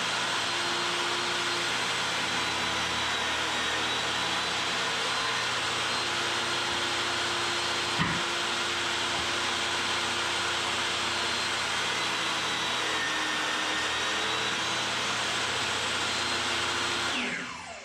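Table saw running steadily with a high whine, with one sharp knock about halfway through, then winding down near the end as the motor is switched off.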